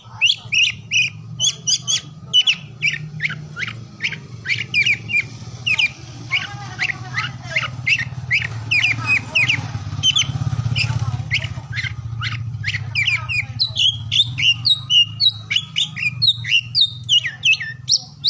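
Oriental magpie-robin (kacer) singing: a fast, continuous run of short, sharp whistled and chattering notes, several a second, over a low steady hum.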